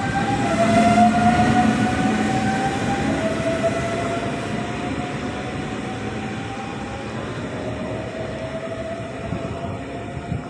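Electric train running, its motors whining in tones that rise slowly and step back down several times as it gathers speed, over a steady rolling rumble. The sound grows gradually quieter.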